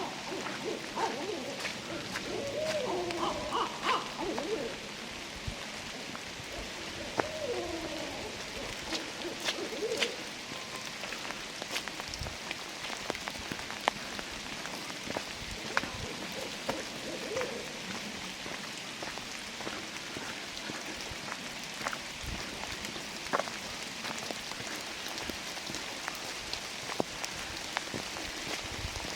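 Steady rain falling through the forest canopy, with scattered drops hitting nearby. A few faint wavering calls or distant voices come and go in the first several seconds, again around eight seconds in, and once more near the middle.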